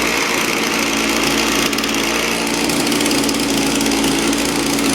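Echo two-stroke engine running steadily just after a cold start, the engine cold and the tool unused for about a month.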